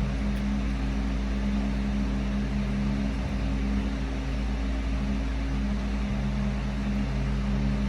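Steady low mechanical hum with several held low tones and an even hiss over it, unchanging throughout.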